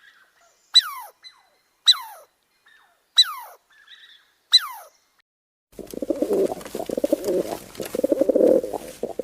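Animal calls: four short calls about a second apart, each falling sharply in pitch, then from about six seconds in a louder, low, rough, rapidly pulsing call.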